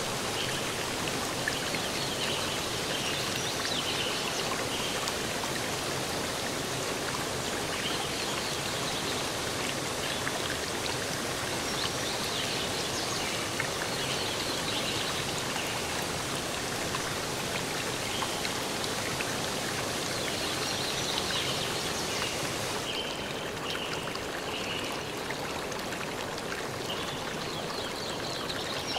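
Steady rush of running water, like a flowing stream, with short high notes scattered over it.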